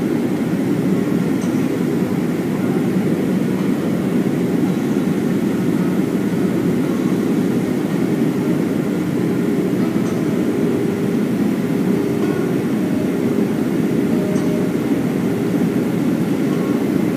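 Steady in-flight cabin noise of a Boeing 737-400: the rush of airflow and the drone of its CFM56-3 turbofan engines, heard from inside the passenger cabin, a deep even rush with faint steady tones.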